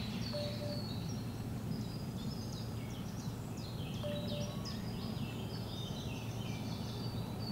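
Several small songbirds singing, a run of chirps and short descending trills, over a steady low rumble.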